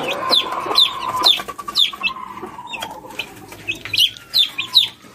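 Week-old gamefowl chicks peeping: a steady run of short, high, falling chirps, two to three a second, with a lower drawn-out call under them in the first second and a half.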